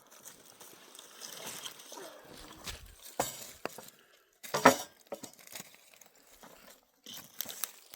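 A few sharp clicks and knocks, one much louder knock a little past halfway, over a faint rustling hiss.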